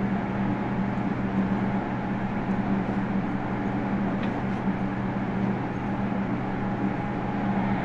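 Interior running noise of a Meitetsu 100 series electric train car: a steady rumble of the car in motion with an even low hum.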